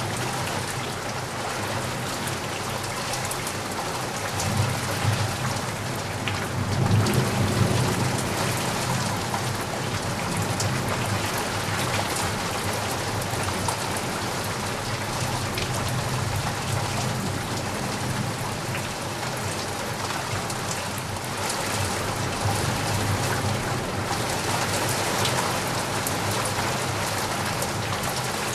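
Steady rain falling on surfaces, an even hiss of drops. A low rumble of distant thunder swells under it several times, loudest about a quarter of the way in.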